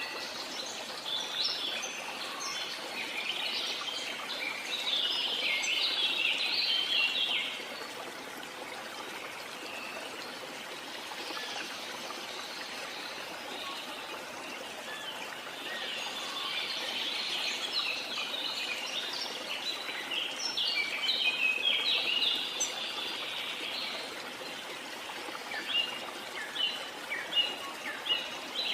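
Steady rush of a waterfall under high, twittering birdsong. The birds chirp in two long busy spells, then in short separate chirps near the end.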